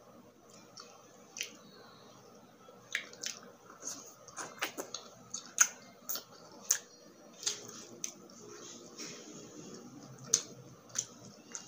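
Close-miked eating of grilled isaw (skewered chicken intestine): chewing with sharp mouth and lip smacks at irregular intervals, the loudest about five and a half seconds in.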